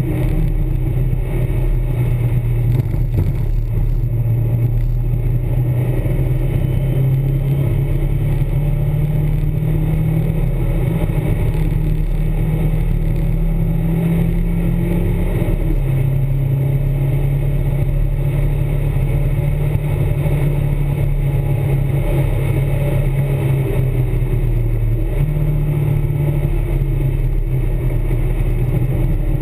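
Nissan S12 Grand Prix's FJ20E 2.0-litre four-cylinder engine running hard at speed on a circuit lap, heard from inside the cabin. The engine note holds steady, drops about halfway through and climbs again near the end.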